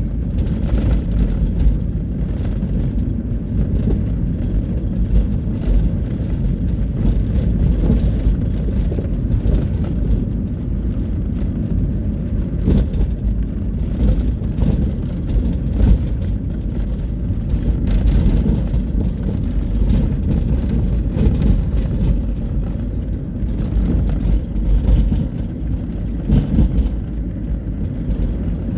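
Steady low rumble of highway traffic, with heavy trucks on the road.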